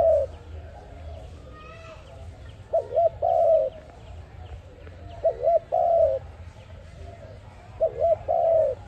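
A dove cooing in a repeated three-note phrase, two short coos followed by a longer one, coming about every two and a half seconds. Other birds chirp faintly in the background.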